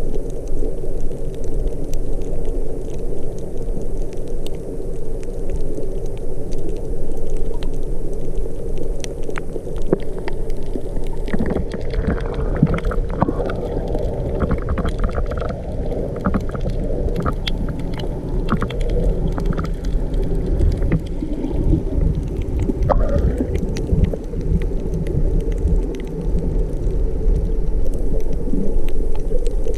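Muffled underwater sound from a camera in the sea: a steady low rumble full of crackling clicks. Short squeaky blips come through midway, with one rising squeak near the end of them.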